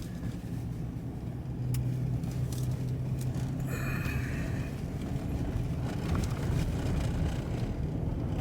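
Steady engine hum and road rumble heard inside a car's cabin as it drives slowly along snowy streets, with a brief higher-pitched sound about four seconds in.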